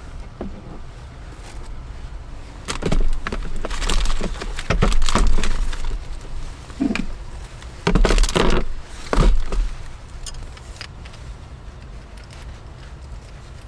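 A run of knocks, bumps and clattering, as of objects being handled and set down, loudest in several strokes between about three and ten seconds in, over a steady hiss of rain.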